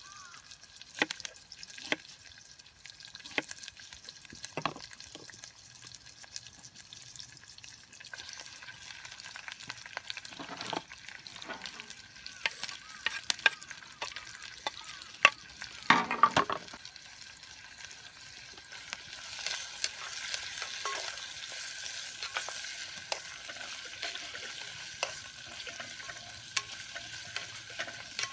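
Wood campfire crackling, with scattered sharp pops and snaps. About two-thirds of the way through, a steadier sizzling hiss builds up.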